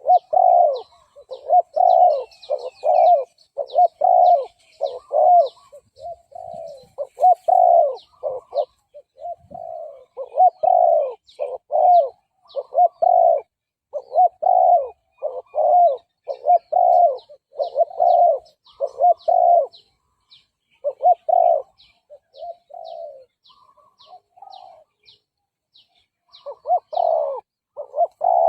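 Spotted dove cooing over and over in short, quick coos, the excited bowing-coo bout of a lure or rival male. Near the end the coos thin out and grow quieter, then resume strongly. Faint high ticks run alongside.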